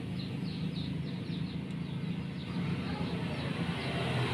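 A bird chirping in quick, short repeated notes over a steady low background hum.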